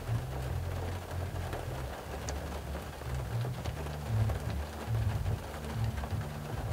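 Rain falling on a car, heard from inside the cabin: a steady patter with a few sharper drop ticks. Underneath runs a low hum that shifts in pitch.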